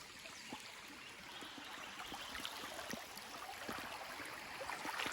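Faint, steady rushing noise with scattered light crackles and taps.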